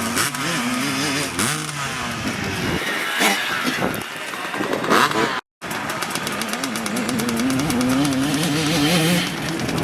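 Dirt bike engines revving up and down, their pitch rising and falling through the gears. The sound drops out completely for a moment about five and a half seconds in.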